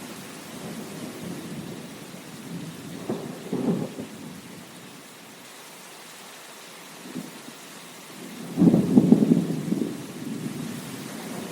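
Steady rain with thunder rumbling: a short low rumble a few seconds in, then a louder, longer one a little past the middle.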